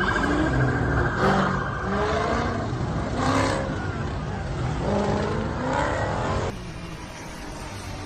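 Car engine revving in repeated rising and falling sweeps. About six and a half seconds in it cuts off to a quieter, steady hum.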